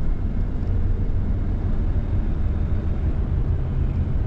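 Steady road and engine rumble heard inside a van's cabin while driving on the highway.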